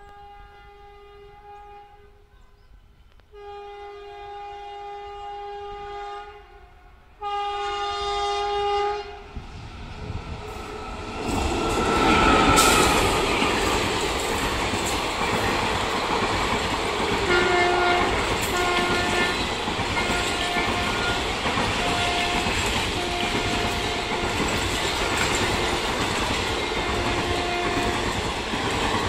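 A WAP-4 electric locomotive sounds its horn in three blasts, each louder than the last as it approaches. It then passes close at speed with a loud rush, and the passenger coaches follow with a steady clickety-clack of wheels over rail joints.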